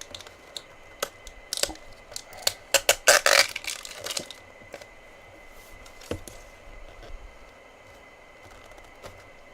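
Handling of packaging: scattered clicks and taps, with a brief louder rustling scrape about three seconds in.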